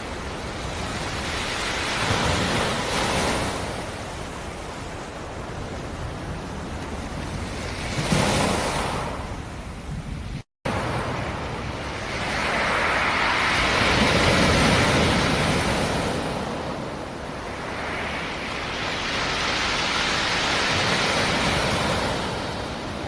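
Black Sea surf: waves rolling in and breaking against rocks, a steady wash that swells and ebbs with each wave, four or five surges. There is a brief cut to silence about ten seconds in.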